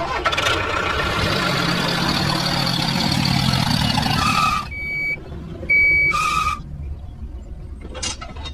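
A small motor and gearing of a miniature DIY construction vehicle run steadily, stopping about four and a half seconds in. Two short high electronic beeps follow about a second apart, like a reversing alarm.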